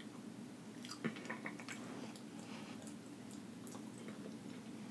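Faint close-up chewing of food, with small wet clicks and smacks of the mouth, most of them between one and two seconds in.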